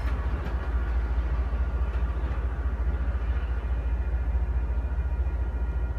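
MBTA diesel commuter rail train running away down the track, a steady low rumble that grows fainter as it recedes.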